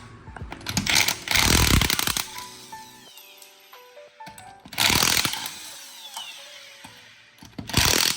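Power impact wrench run in three short bursts, each a second or so long, with a falling whine as it winds down after each one: lug nuts coming off a car wheel.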